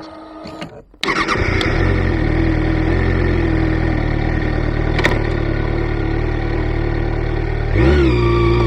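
Kawasaki Ninja ZX-6R inline-four engine starting about a second in and then idling, with a brief rev near the end.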